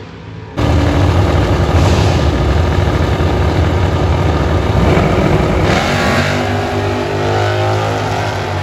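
A loud car engine running hard at high revs. It starts abruptly about half a second in, and its pitch climbs around six seconds in.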